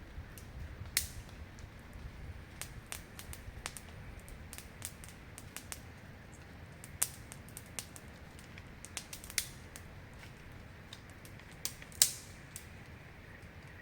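Wood fire crackling: irregular sharp pops and snaps, a louder pop near the end.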